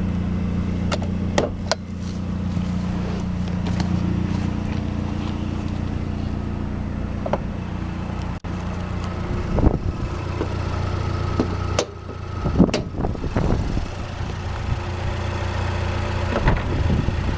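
2012 Mazdaspeed3's 2.3-litre turbocharged four-cylinder engine idling steadily. A few sharp clicks and knocks sound over it, about a second in and again around ten to thirteen seconds in.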